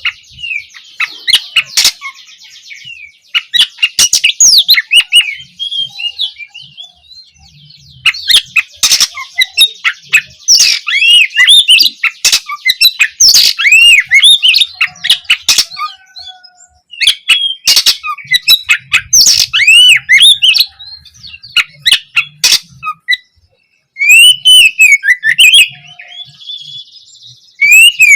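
Oriental magpie-robin (kacer) singing loudly in rapid bursts of varied whistled and scratchy phrases with sharp clicks, broken by short pauses, including a few fast buzzy rattles.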